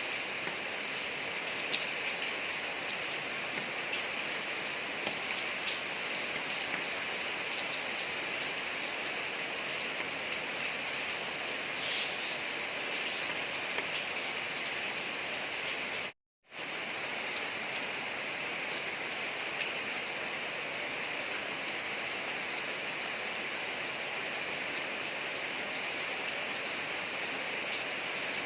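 Steady rain falling on a street, a dense even hiss with faint individual drops ticking through it. About halfway through, the sound cuts out completely for a fraction of a second, then resumes.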